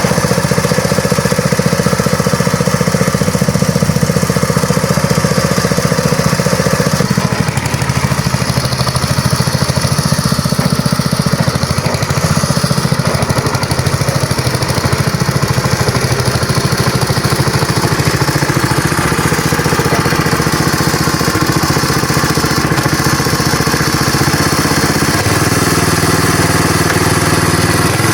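Small combustion engine running steadily, its note shifting about seven seconds in and again near the end.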